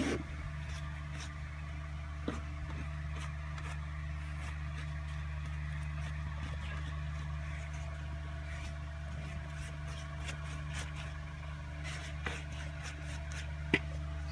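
A steady low mechanical hum, with a few faint clicks and a sharp tap near the end.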